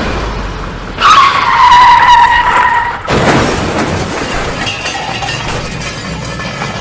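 Vehicle-like noise, tagged as a car skidding. About a second in, a whine starts and falls slightly in pitch over two seconds. A sudden noisy rush follows at about three seconds.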